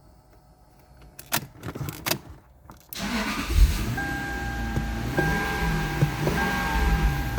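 A few clicks, then a Lexus SC430's 4.3-litre V8 starting suddenly about three seconds in and running at a steady idle. A steady tone comes in about a second later, broken by short gaps about once a second.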